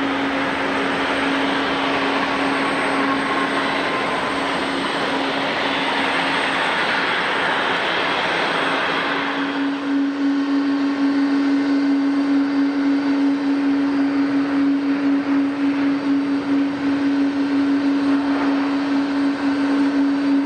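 Jet airliner engines running: a steady hum under a loud rushing noise. The rush falls away about halfway through, leaving the hum with a slight pulsing.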